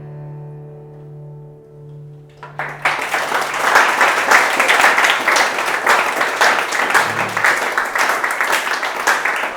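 The final strummed chord of an acoustic guitar rings out and fades, then an audience bursts into applause about two and a half seconds in, the applause being the loudest part.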